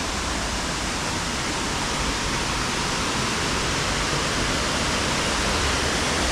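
Steady rushing roar of a waterfall, growing slightly louder toward the end.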